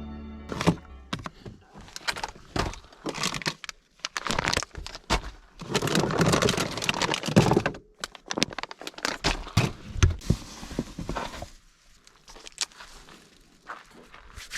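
Things being handled and set down: a string of knocks and thuds mixed with rustling and crinkling, thinning out toward the end. Background music fades out just as it starts.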